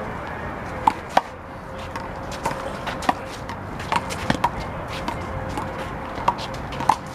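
Big blue rubber handball being slapped by hand and bouncing off the wall and pavement during a one-wall handball rally: a string of sharp, irregularly spaced smacks.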